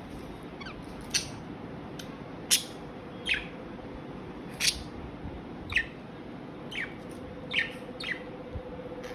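Pet budgerigars chirping: short, sharp chirps about once a second, each a quick downward sweep in pitch, over a steady background hiss.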